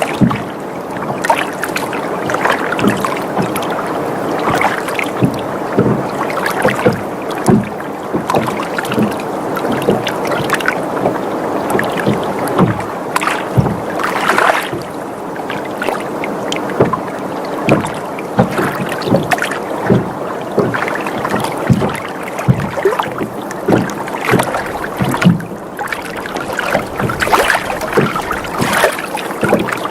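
Water sloshing and lapping against a sailboat's hull, with frequent short splashes and knocks and the creaking of the boat as it rocks.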